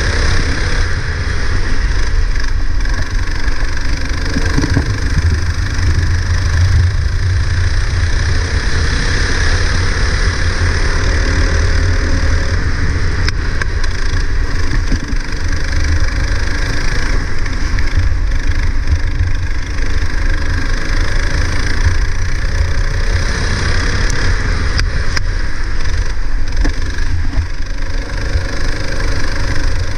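Go-kart engine running on track, its pitch rising and falling over and over as it accelerates and slows, over a steady hiss and a strong low rumble.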